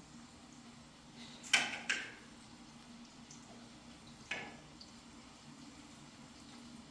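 Three sharp knocks or clinks with a short ring, two close together about a second and a half in and a fainter one about two seconds later, over a steady low hum.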